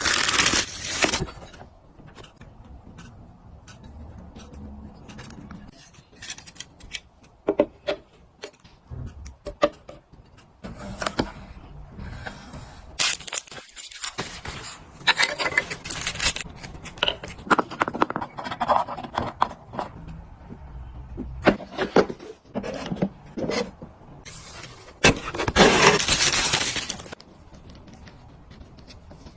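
Things being handled and set down by hand: scattered clicks and light clinks, with several louder bursts of rustling or scraping, the longest about two seconds long near the end.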